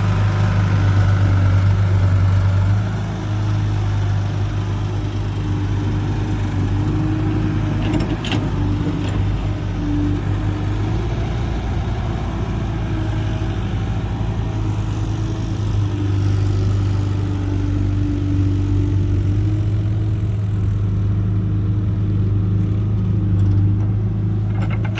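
Diesel engine running steadily at a constant speed, with a deep even hum.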